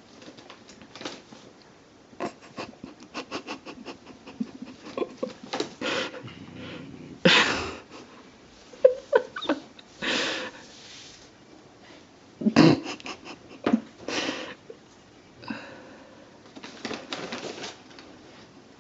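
Cats getting into an open bag of freeze-dried chicken treats. There are irregular clicks and several louder bursts of rustling.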